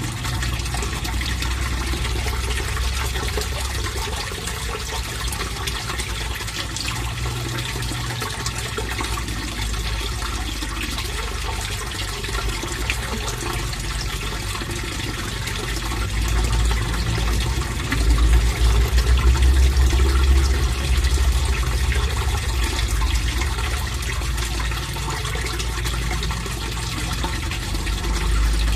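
Fish pond water flowing steadily: a continuous rush of moving water over a deep low rumble. The rumble swells for a few seconds about two-thirds of the way through.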